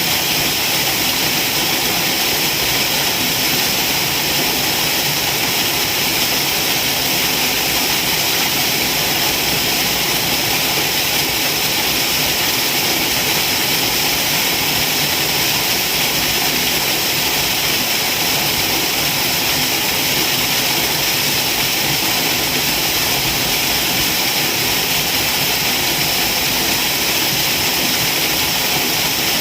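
Waterfall: a steady, unbroken rush of falling water, loud and even throughout, strongest in the hissing upper range.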